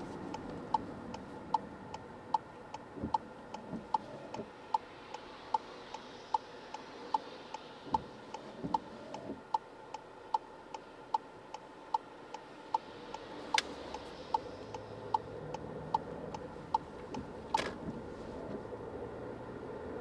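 Car turn-signal indicator clicking in an even tick-tock, about one cycle every 0.8 seconds, over steady road noise inside the cabin. Two sharper clicks come near the end, the second as the ticking stops.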